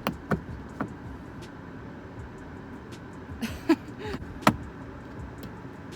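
Steady low hum inside a parked car, with a few sharp clicks near the start and again about four and a half seconds in, and a brief murmur of a voice in between.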